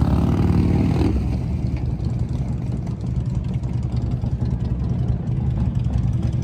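Motorcycle engine running with a steady low rumble, briefly louder and higher-pitched in the first second.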